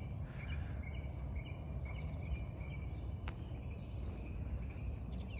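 Outdoor birds chirping, with short repeated high notes throughout and a few thin higher whistles, over a steady low rumble. A single sharp click about three seconds in.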